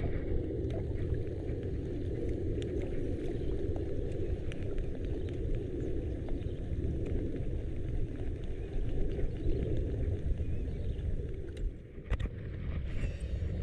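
Small boat engine running steadily while under way, with a low even drone and water and wind noise.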